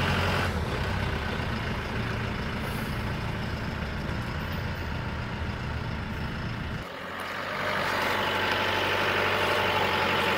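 A vehicle engine idling steadily; about seven seconds in the deep low rumble drops away suddenly and a quieter, higher engine hum carries on.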